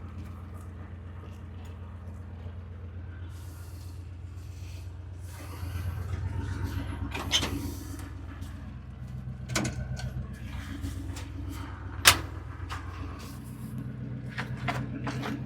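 Truck engine idling steadily, with a few sharp metallic clicks and knocks over it, the loudest about twelve seconds in.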